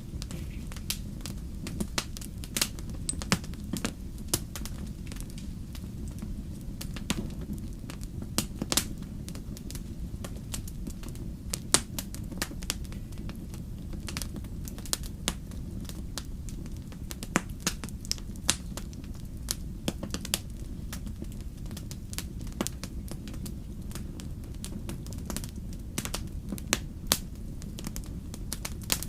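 Fire crackling, with frequent irregular sharp pops over a steady low rumble.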